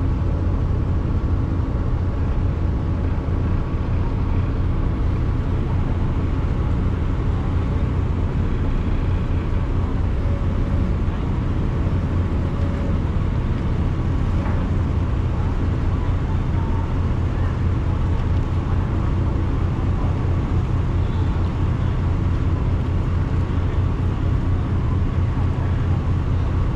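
Steady, low engine drone with no change in speed, with a faint thin whine above it.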